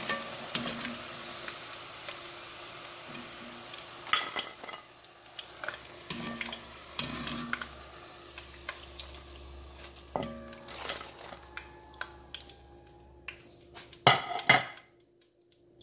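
Breadfruit pieces sizzling in hot oil in a cast iron pot as they are lifted out with a wire-mesh skimmer after their first fry. The sizzle fades over the first few seconds, with scattered clinks of the skimmer against the pot and plate. A short loud clatter comes near the end.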